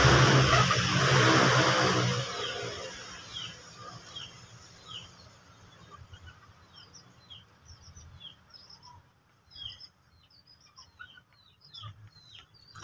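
Small birds chirping: a steady run of short, high, falling chirps about twice a second. A loud steady noise fades out over the first two seconds.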